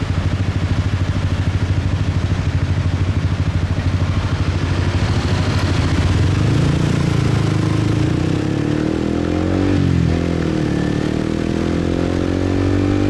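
Motorbike engine heard from the rider's seat, rumbling steadily at first and then rising in pitch as the bike accelerates from about six seconds in, dipping briefly near ten seconds before climbing again.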